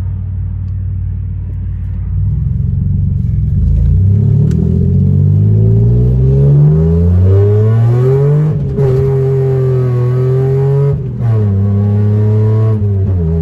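Mitsubishi Eclipse engine heard inside the cabin, pulling hard with its pitch climbing under acceleration. About nine and about eleven seconds in it briefly drops off and comes back lower in pitch, like gear changes, then runs steady.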